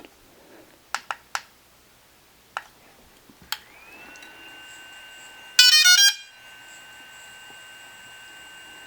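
DJI Phantom 3 Professional drone switched on: a few clicks, then a steady high-pitched electronic whine from the gimbal that settles about three and a half seconds in and holds, with a quick run of rapid beeps for half a second around the middle. The owner takes the constant gimbal whine, heard for as long as the drone is powered, for a fault, one that does not sound right.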